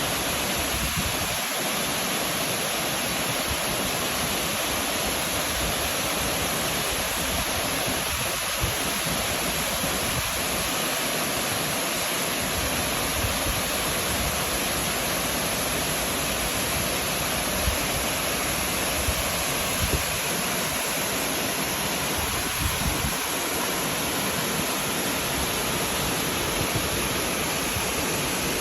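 Heavy rain falling steadily: a dense, even hiss that keeps up throughout, with a few slightly louder drop hits here and there.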